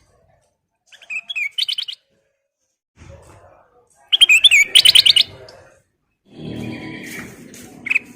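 Kutilang emas bulbul singing: short bursts of fast, warbling whistled notes, the loudest phrase about four seconds in, with pauses between. A low background rumble joins in during the last couple of seconds.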